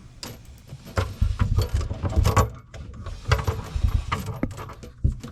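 Irregular clicks, knocks and rattles of faucet hoses and their plastic quick-connect fittings being handled and pushed together.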